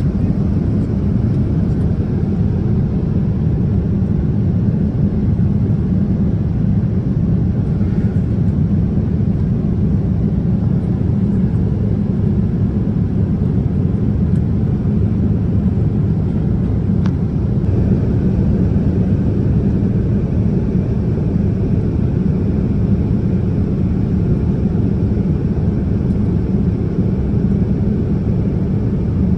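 Steady cabin noise inside a Boeing 787-10 airliner in flight: an even, low rumble of engines and airflow that stays the same throughout.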